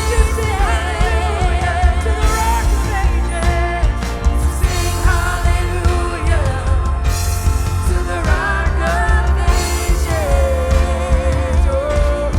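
A live worship band playing, with a singer holding long, wavering notes over a full band with heavy bass and drums.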